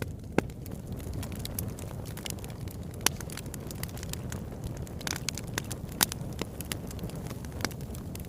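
Wood fire burning in a fireplace: a steady low rumble of flames with scattered sharp crackles and pops, the loudest pops about 3 and 6 seconds in.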